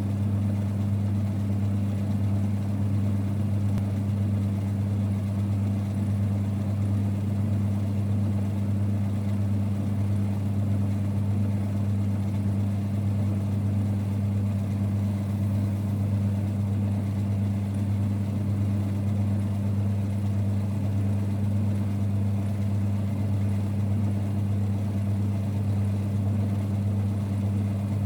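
1946 Boxford lathe running with a steady, even low hum.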